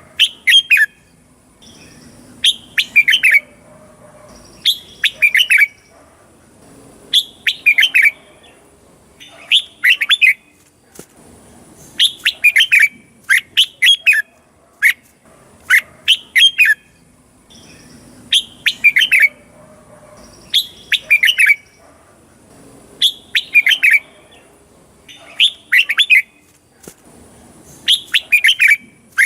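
Red-whiskered bulbul singing: short phrases of a few quick, clear notes, repeated about every two seconds.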